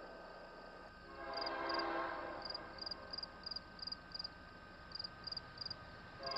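Locomotive horn sounding for a grade crossing: a chord blast about a second in that fades after a second and a half, then a loud blast starting near the end. Short high dings repeat about three times a second between the blasts, from the crossing's warning bell.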